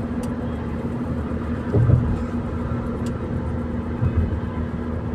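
A car driving: steady engine and road noise with a constant low hum, and a short low thump about two seconds in and another about four seconds in.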